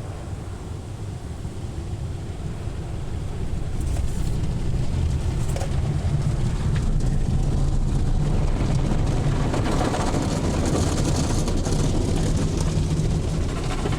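Automatic car wash heard from inside the car: a steady rush of water spray and machinery noise over a low rumble against the body, growing louder about four seconds in.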